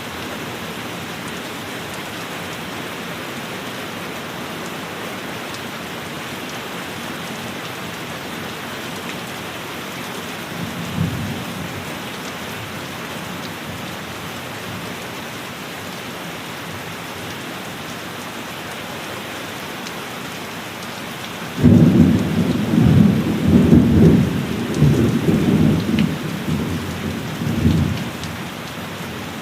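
Steady heavy rain falling on a cabin roof, with a brief low rumble of thunder about a third of the way in. About two-thirds of the way in a loud thunderclap breaks suddenly and rolls on in uneven low rumbles for several seconds before fading.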